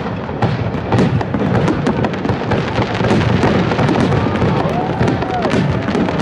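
High-altitude aerial fireworks display: many shells bursting in quick, overlapping bangs with constant crackling.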